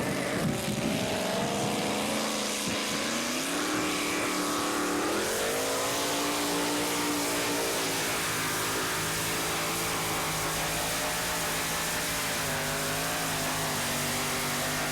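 Pulling tractor's racing engine at full power, its pitch climbing about four to five seconds in and then holding steady, over a heavy noisy roar.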